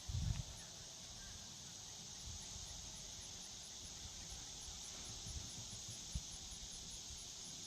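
Outdoor ambience of insects: a steady high-pitched drone with a fast, evenly repeating high chirp over it, and a few faint low bumps.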